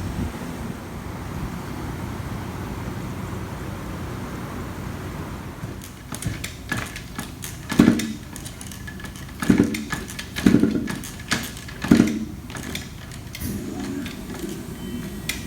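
An engine running steadily with a low hum. From about six seconds in, a series of sharp metallic knocks and clanks sounds over it.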